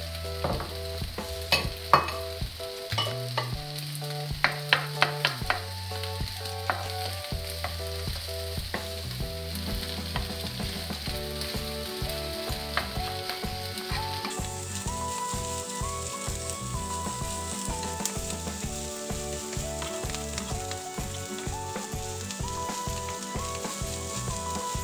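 Fried rice with egg and minced pork sizzling on a hot electric griddle while it is stirred and turned with spatulas. Several sharp clacks of the spatulas striking the griddle plate come in the first few seconds, then steady stirring and scraping under the sizzle.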